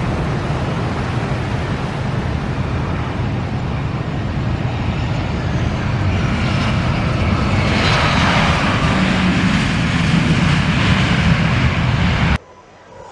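Jet airliner engines, a loud steady rumble that grows louder and hissier about seven seconds in, then cuts off abruptly near the end.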